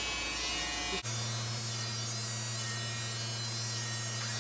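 Electric hair clippers buzzing steadily with a low, even hum. The sound changes abruptly about a second in and then holds steady.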